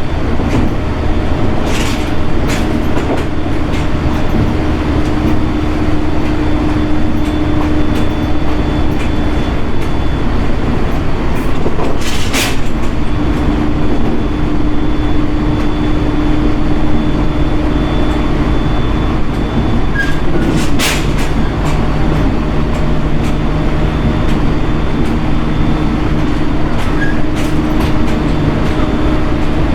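JR East 701 series 1000 subseries electric multiple unit heard from inside the car while running: a steady rumble of wheels and motors with a humming tone that comes and goes, and three sharp clicks from the track scattered through.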